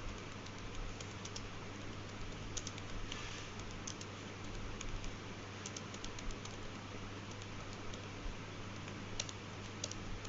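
Irregular light clicks and taps, several a second in places, over a steady low hum and background hiss.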